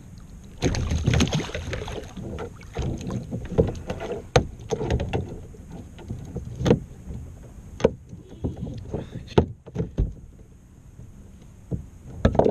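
Handling noises on a fishing kayak: a stretch of rustling or splashing, then irregular knocks and clatter of gear against the hull.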